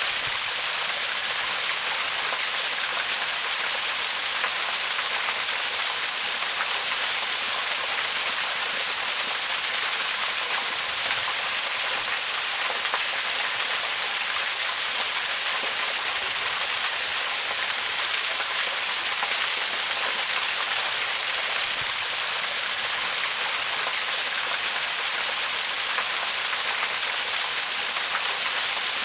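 Waterfall: falling water making a steady, even, bright hiss that never breaks or changes.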